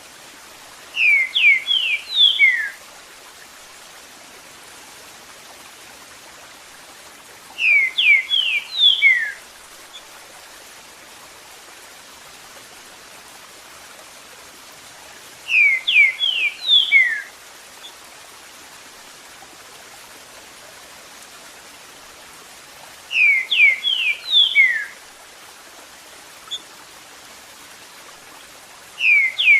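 A green-winged saltator (trinca-ferro) sings the 'Eu sou terrível' song: a short phrase of about six quick, downslurred whistled notes, repeated about every seven and a half seconds. Behind it is a steady hiss of running water.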